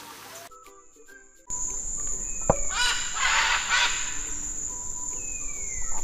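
Soft background music, then about a second and a half in a louder outdoor bird recording starts: a steady high-pitched insect buzz with two falling whistled bird calls and a harsh, noisy call burst in the middle.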